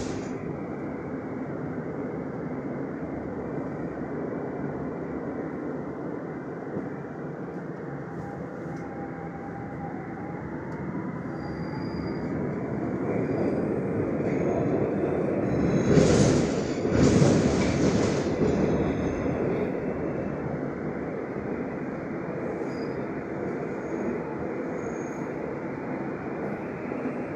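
Metro train running on its rails, a steady rumble that grows louder past the middle, where the wheels give two loud screeches a second or so apart before it settles back.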